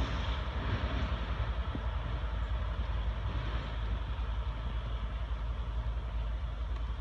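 Steady low rumble of a train moving away out of sight, with a hiss above it.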